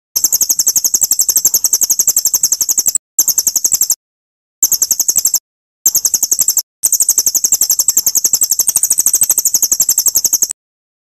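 A songbird repeating one high, sharp chirp very fast, about eight a second, in long runs broken by a few short pauses. The song stops shortly before the end.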